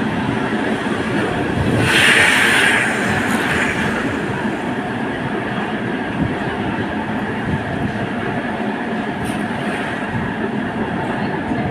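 Tram running along its rails, a steady rumble and rattle of wheels on track. A brief louder high-pitched screech comes about two seconds in.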